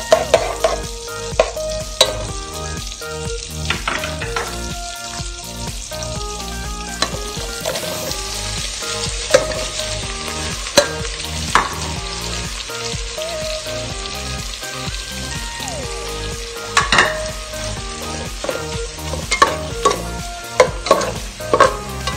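Melted butter and sliced hotdogs sizzling in an aluminium pot, with a metal spoon stirring and knocking sharply against the pot, most often near the start and in the last few seconds.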